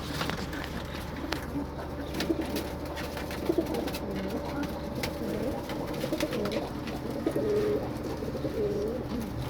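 Domestic pigeons cooing, several low warbling coos overlapping one another, with scattered light clicks.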